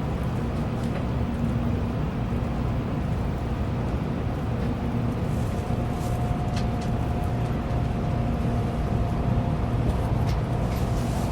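Shinkansen cabin noise: a steady low rumble of the train running on the track, with a faint steady whine joining about halfway through and a few light ticks.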